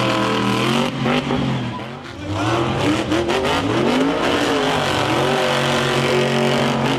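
Monster truck engine at high revs that falls away about a second in, then revs up and down several times before holding steady again.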